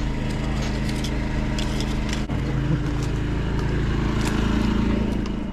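An engine running steadily at a constant speed, giving a low, even hum with a noisy rush above it.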